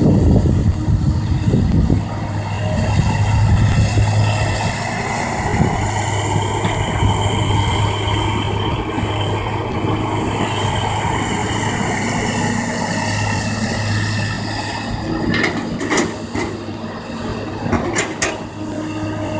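Kobelco hydraulic excavator working: the diesel engine runs steadily under load while a high hydraulic whine slowly rises and falls. There is heavier rumbling in the first two seconds, and a few sharp clanks come near the end.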